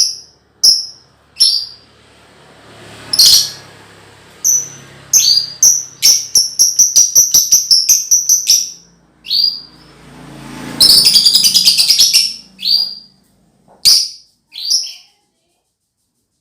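Young lovebird practising its 'ngekek' chattering call. It gives sharp, high separate chirps, then a fast run of about five chirps a second, then a dense rattling burst of chatter, then a few last chirps before it stops.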